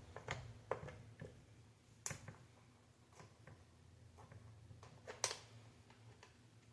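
Faint light clicks and taps of small screws and parts being handled while a game console is put back together, with two sharper clicks about two seconds and five seconds in.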